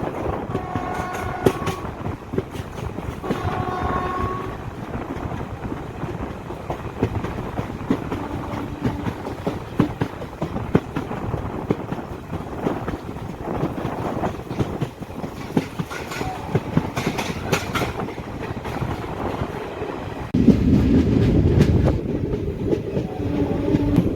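Moving passenger train heard from aboard: steady wheel rumble and clatter on the rails, with two short blasts of the locomotive horn in the first few seconds. About twenty seconds in the rushing rumble gets suddenly louder.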